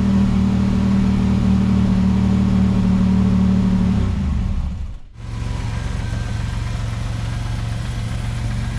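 1987 Buick Grand National's turbocharged 3.8-litre V6 running steadily at raised revs, its pitch sinking about four seconds in. After a brief drop-out about a second later, the engine idles steadily at a lower pitch.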